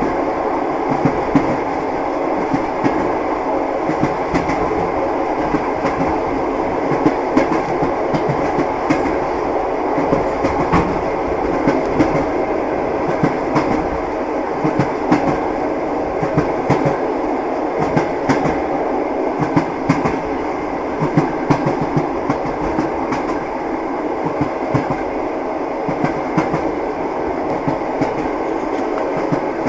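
Train wheels clattering over the rail joints while running at speed, heard from inside the passenger carriage: a steady rumble broken by frequent sharp knocks.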